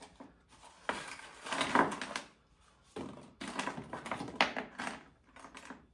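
Handling noise: irregular clicking and rustling as the small plastic camera mount and a screw are fumbled with by hand, in two spells.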